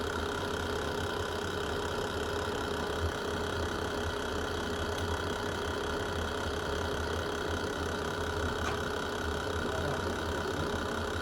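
Wood fire in a fireplace burning with a steady low roar and a few faint, scattered crackles.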